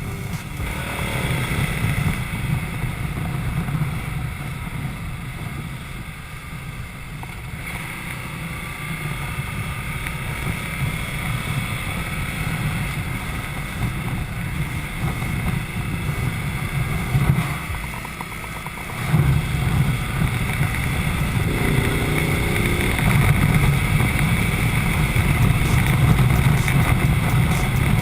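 Ducati Multistrada's V-twin engine running under way, with wind noise on the camera microphone. The engine note drops off briefly about two-thirds of the way through, then picks up again.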